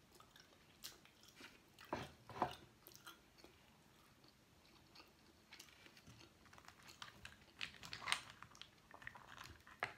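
Faint, close-up mouth sounds of a person eating boiled seafood with her fingers: scattered soft chewing smacks and clicks, the strongest about two and a half seconds in and a run of them around eight seconds.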